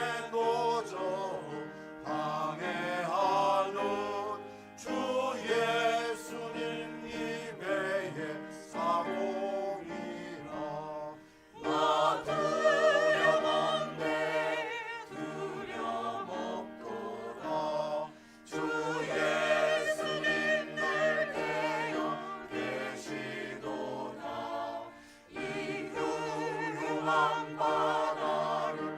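A small vocal ensemble singing a hymn in harmony, in sustained phrases with vibrato.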